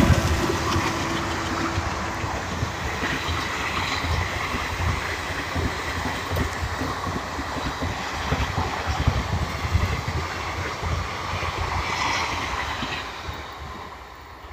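Special train of inspection cars and saloons running past, its wheels rumbling and clattering on the rails, then fading away near the end as the last coach draws off.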